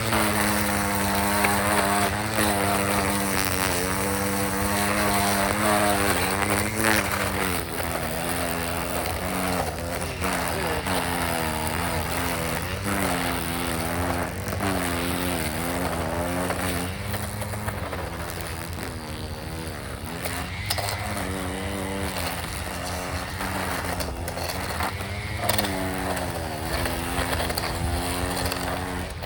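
Battery-powered trimmer running continuously, its motor whine dipping and recovering in pitch every second or two as it bogs under load while cutting, then picking back up.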